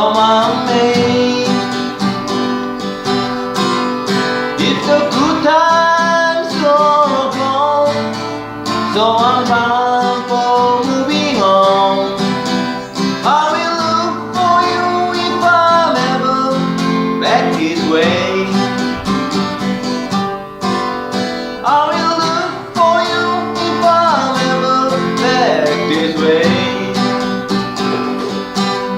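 Takamine EG-523SC acoustic guitar strumming the chords of a slow country-folk song, with a bending melody line above it in phrases of a few seconds each.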